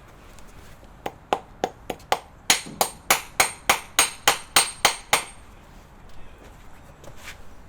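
Farrier's hammer striking metal in quick repeated blows with a faint metallic ring. A few lighter taps lead into about ten harder blows at roughly three a second, then the hammering pauses and resumes near the end.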